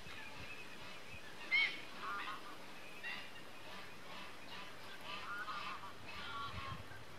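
Birds calling: a run of short pitched calls, the loudest about one and a half seconds in.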